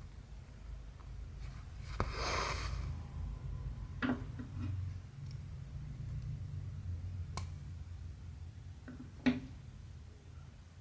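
Hand cross-stitching: a few sharp clicks of the needle through stamped cotton fabric and, about two seconds in, a short rustle of thread drawn through, over a low steady hum.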